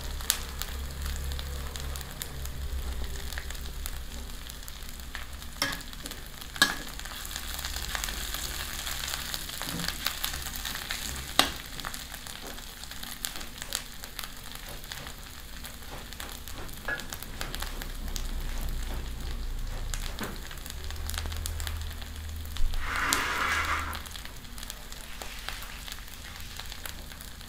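Chopped chili paste sizzling steadily in oil in a black iron wok, with a few sharp knocks in the wok and a brief scrape near the end.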